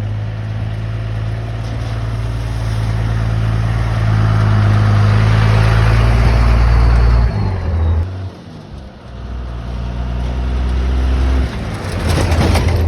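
Old work truck's engine pulling the truck along, its revs building for several seconds before dropping away about seven seconds in, then picking up again. Road and tyre noise rises briefly near the end.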